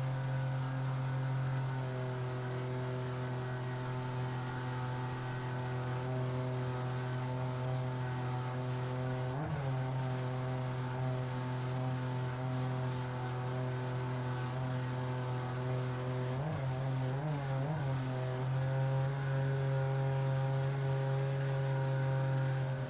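Outboard motor of an inflatable river jet boat running steadily under way, with a brief dip and recovery in revs about nine seconds in and a few more quick rev changes around sixteen to seventeen seconds.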